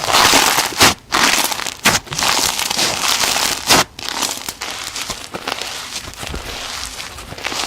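Slime being squeezed and worked by hand, making a dense crackling, crinkling noise. It comes in surges about a second long with brief breaks between them.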